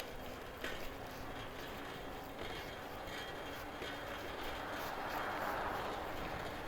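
Steady rushing of traffic and riding noise on a city street, heard from a moving e-bike, with a low rumble underneath and a swell of noise about five seconds in, like a vehicle passing close by.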